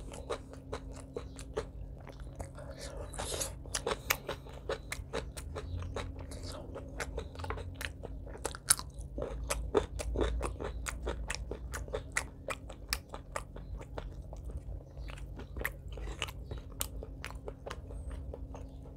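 Close-up mouth chewing of a mouthful of curry and rice: a dense run of wet clicks and smacks, several a second.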